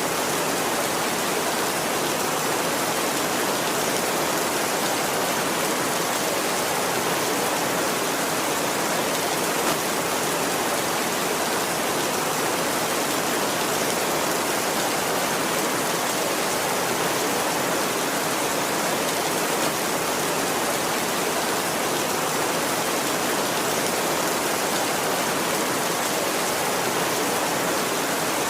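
Heavy rain falling on a tin roof, a steady, unbroken hiss.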